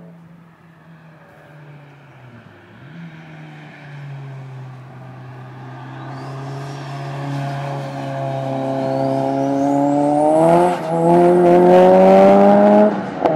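A track car's engine approaching and growing steadily louder, its note rising as it accelerates out of the corner. The engine note cuts briefly twice near the end.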